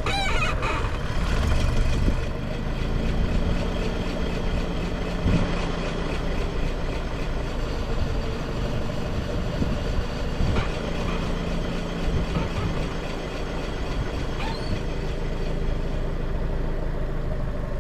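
Ford car's engine idling steadily, with a few short knocks and clicks over it.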